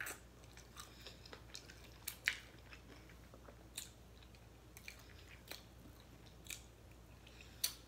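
A person biting and chewing crispy oven-baked chicken wings: faint, sharp crunches at irregular spacing, about one a second, the loudest about two seconds in and just before the end.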